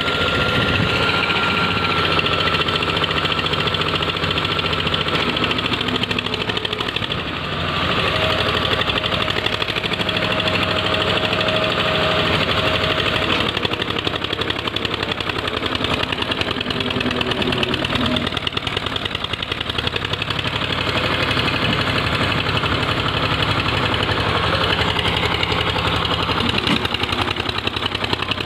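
Eicher 242 tractor's diesel engine running steadily with a rapid, even beat, dipping briefly about seven seconds in.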